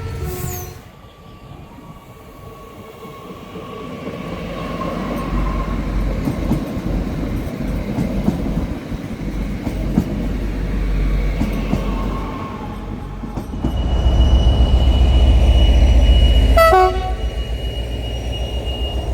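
A train running past, its rumble building and peaking about three-quarters of the way through, with a long, steady, high-pitched whistle or horn blast starting about two-thirds of the way in and held to the end.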